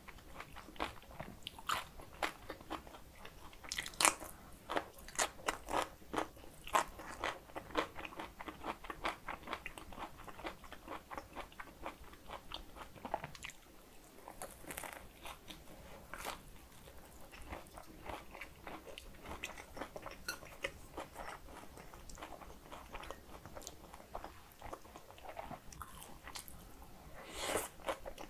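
Close-miked mouth sounds of biting into and chewing a pan-fried dumpling, with its crisp browned skin giving quick crunches and crackles. They come thickly at first, thin out around the middle, and a louder rustling noise comes near the end.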